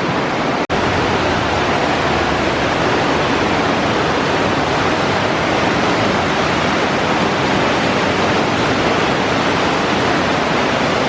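Steady rushing of a waterfall, a loud even roar of falling water, broken by a momentary dropout just under a second in.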